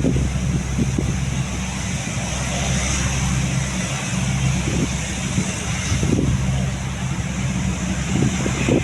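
Steady low engine drone made of several even hum tones, with a hiss over it.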